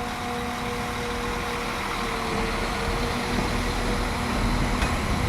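Class 195 diesel multiple unit's underfloor diesel engine running as the train creeps slowly in: a steady hum with a few held tones, one dipping slightly about two seconds in.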